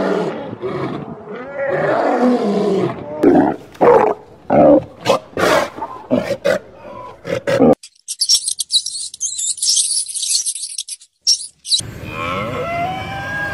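A lion roaring: long moaning calls followed by a series of short, loud grunts that get briefer. A few seconds of high hissing noise follow, and near the end a cow starts to moo.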